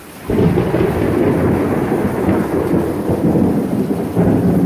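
Thunder from a close lightning strike: it starts suddenly about a third of a second in, then keeps up a loud rumble that swells again near the end. Rain falls underneath.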